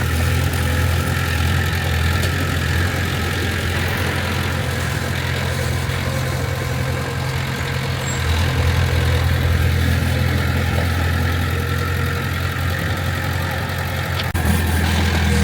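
Heavy diesel engine of earthmoving equipment running steadily with a low hum, getting a little louder about halfway through.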